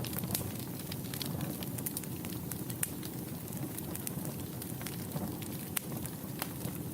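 Wood fire burning in a fireplace: a steady low rumble with many sharp crackles and pops scattered through it, several a second.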